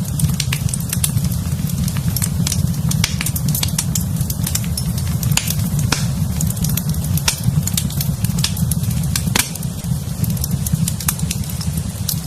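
A fire in a fireplace crackling and popping: many sharp, irregular pops and snaps over a steady low rumble.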